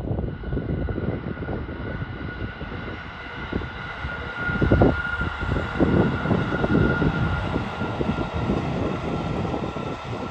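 Electric train passing: a steady high whine over a rumble of wheels on the rails, loudest about halfway through as it draws nearest.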